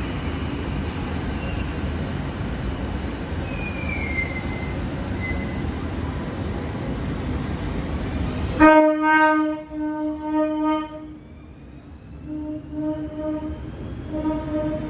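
Electric train running, a steady rumble with a few brief wheel squeals. About two-thirds of the way in it cuts off abruptly to a train horn: one long blast, then a short pause and several shorter blasts.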